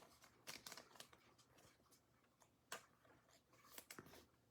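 Near silence with a few faint clicks and slides of trading cards being handled and flipped, in a small cluster about half a second in, once near the middle and again near the end.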